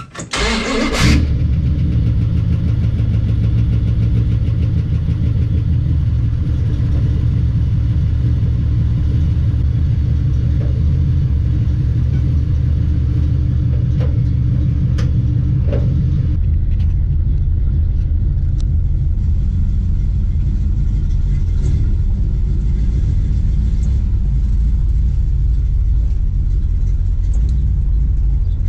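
408 cubic inch stroker V8 in a 1970 Dodge Challenger firing up in the first second, then running steadily. About halfway through its note shifts deeper.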